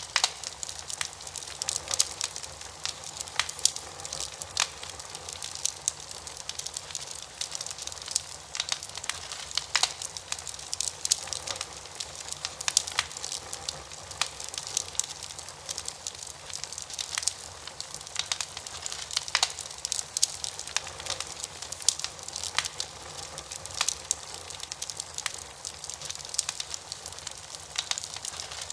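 Wood campfire burning, with frequent irregular crackles and sharp pops over a steady hiss.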